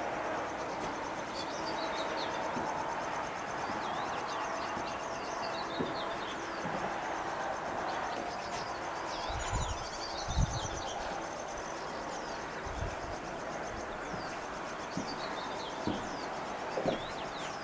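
Small birds chirping and trilling again and again over a steady rushing background noise, with a few low thumps about ten seconds in.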